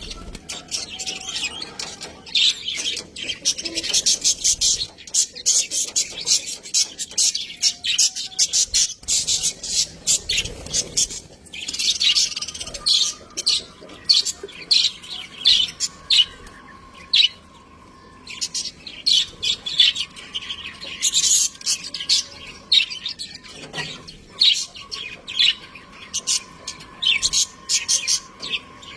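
Budgerigars chirping and warbling in a rapid, continuous chatter of short high calls.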